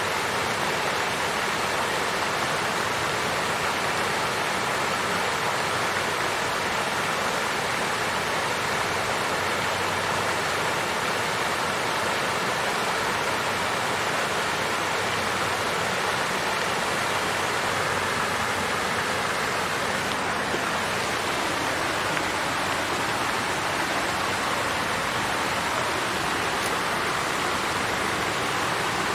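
Water fountain flowing: a steady, even splashing rush of falling water.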